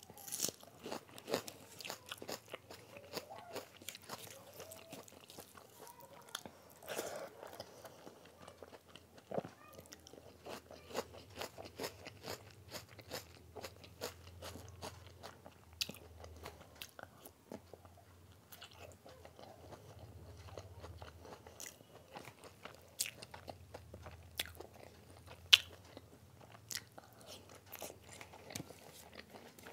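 Close-up chewing and mouth sounds of a person eating rice and egg curry by hand: many small, sharp, wet clicks, with one louder click about 25 seconds in.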